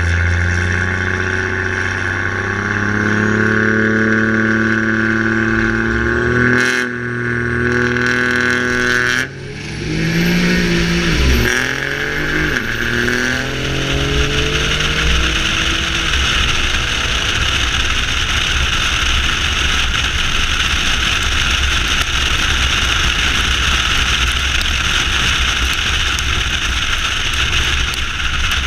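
A car engine accelerating hard, its pitch climbing in steps through several gear changes, then dropping sharply and winding down as the car slows. After that comes a long steady rush of wind and road noise.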